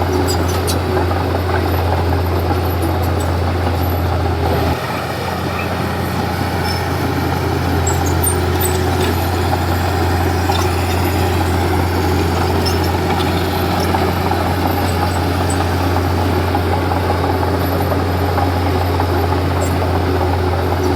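Komatsu D31P bulldozer's diesel engine running steadily with a deep hum. The engine note shifts about five seconds in, and there are a few faint clinks.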